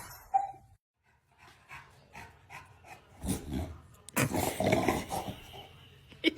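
A dog vocalizing in a string of short sounds, louder and longer about four seconds in.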